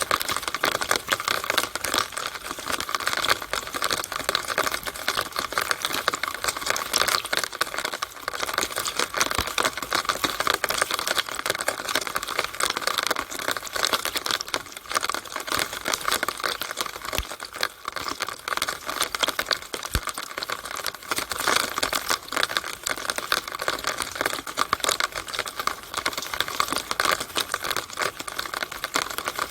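Rainwater in a downspout on a rainy day: a steady, dense, irregular patter of drops and trickling water.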